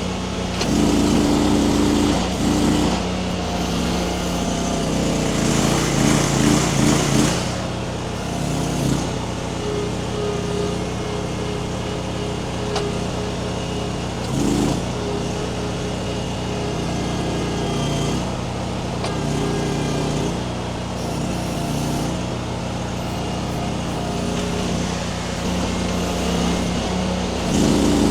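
Mini skid steer's engine running under load as it works a grapple, its engine note shifting up and down several times.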